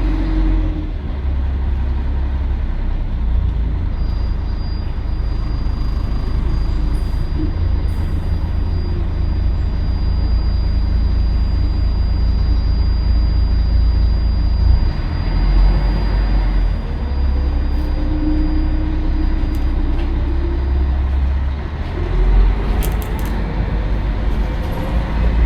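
Scania L113CRL bus's six-cylinder diesel engine running under way, its note climbing as it accelerates and falling back a couple of times, over a heavy low rumble. A faint steady high whine runs through most of it.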